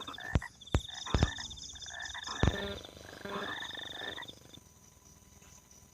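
Frogs croaking in a rice paddy at night, with a rapid high trill running through the calls. The calling stops about four seconds in. Four sharp clicks or knocks, louder than the calls, fall in the first half.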